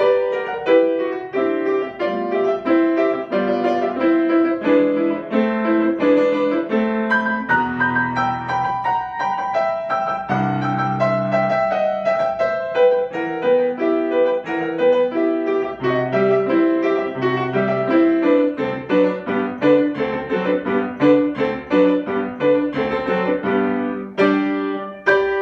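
Solo piano playing a lively piece in quick, dense running notes, closing with a sweep up into the high notes and a final chord that rings out.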